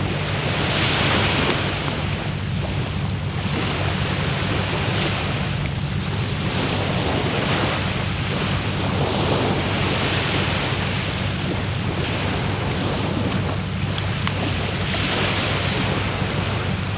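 Campfire burning: a steady rushing of flames that swells and eases every few seconds, with a few faint sharp crackles. A steady high-pitched tone runs throughout.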